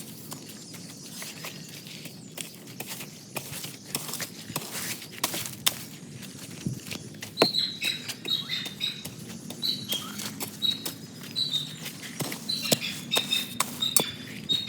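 Irregular knocks and scrapes of a garden tool chopping into and breaking up soil. About halfway through, a bird starts chirping repeatedly.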